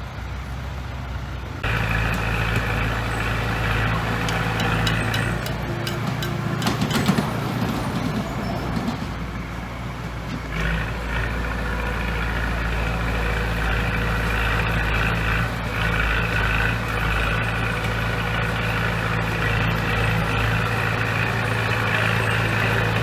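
Diesel engine of heavy earthmoving machinery running steadily under load; it becomes suddenly louder about a second and a half in. A short stretch of hiss and clatter comes around the middle.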